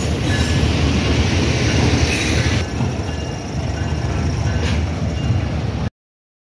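Diesel-hauled passenger express arriving along a station platform: a steady loud rumble of coaches and wheels on the rails, with a few sharp clicks. The sound cuts off abruptly about six seconds in.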